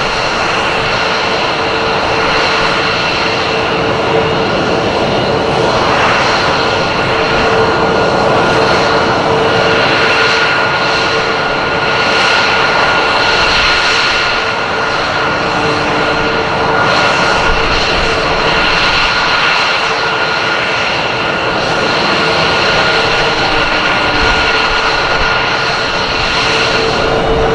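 Aircraft engine noise, loud and steady, with a constant high whine held at one pitch through it.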